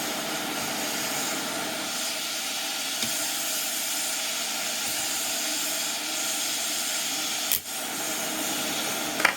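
ATTEN ST-862D hot air station blowing hot air through its nozzle, driven by its brushless fan: a steady hiss of rushing air while the solder joints heat. A brief click with a short dip in the hiss comes about seven and a half seconds in.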